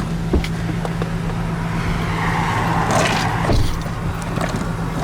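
Car engine running at low speed with a steady hum while the car backs up. There is a knock about half a second in and a brief rushing noise from about two to three and a half seconds in.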